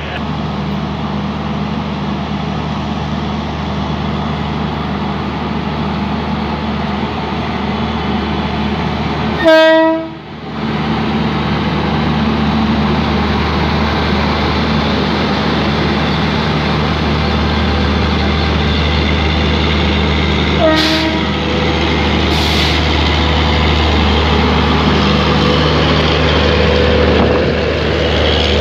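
Indian Railways electric locomotive pulling a passenger express along a station platform: a steady low hum of the locomotive and the rolling of wheels and coaches, growing louder later on. It sounds its horn in a loud, short blast about nine and a half seconds in, and gives a shorter toot at about twenty-one seconds.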